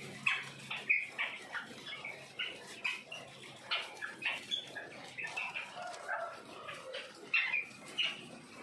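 A flock of quail chirping, many short calls overlapping irregularly from several birds at once.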